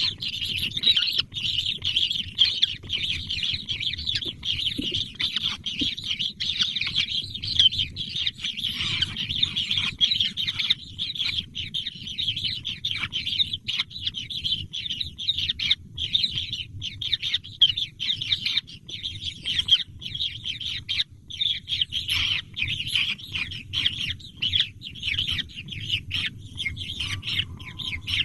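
Baby birds chirping rapidly and without a break, many short high calls overlapping, over a steady low rumble.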